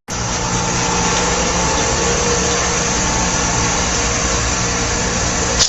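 A steady mechanical running noise with a low, even hum, like an engine running.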